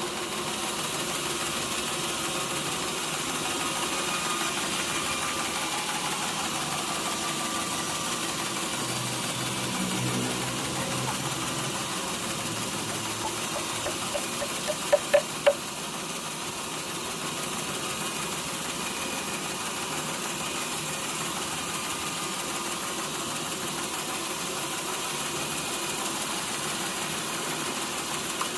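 Sawmill machinery running steadily, an engine-driven hum with a hiss spread across the highs. About halfway through come three sharp knocks close together.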